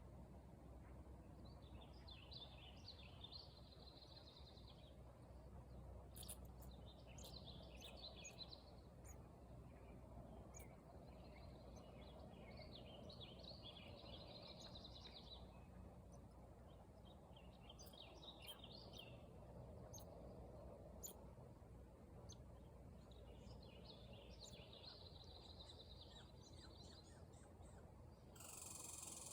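Faint bird twittering in repeated bouts of a second or two, over low outdoor background noise, with a few short sharp clicks between them. Near the end a steady high-pitched hiss comes in.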